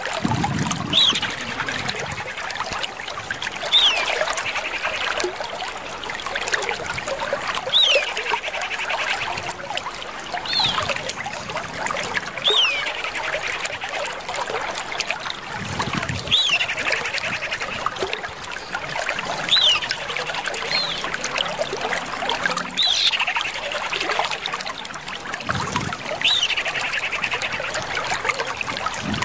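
Common iora calling: repeated clear whistles that slide down from high to lower pitch, one every two to four seconds, several followed by a quick rattling trill, over a steady trickle of running water.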